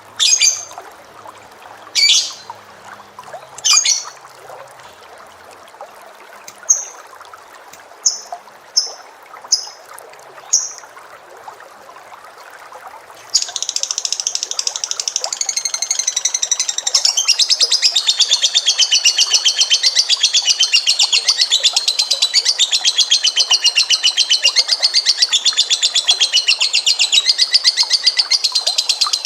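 Pet bird calling: short sharp calls every second or two, then about halfway through a continuous, very rapid trilling song with wavering pitch starts and keeps going.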